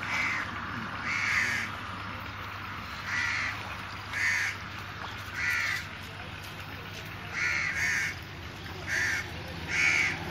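A bird calls over and over in short calls, roughly one a second, over the steady rush of water flowing in the channel.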